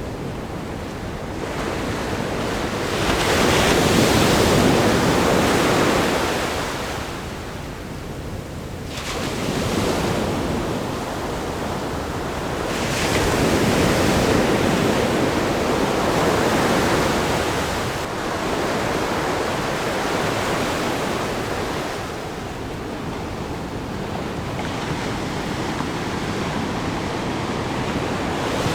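Ocean waves breaking against a rock groin and washing over sand: a steady rush of surf that swells and falls back in surges every few seconds, the loudest about four seconds in.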